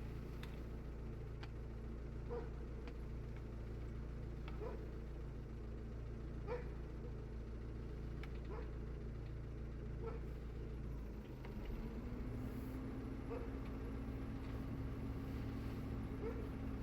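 A dog's short, faint yelps every second or two over a steady low motor hum. About eleven seconds in, the hum changes and a steadier, higher drone sets in.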